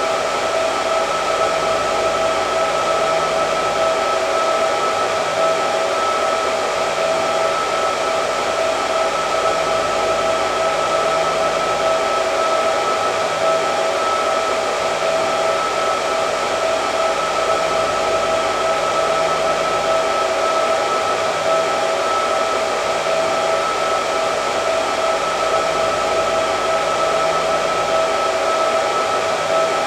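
Hair dryer running steadily: a constant rush of blown air with a steady motor whine through it.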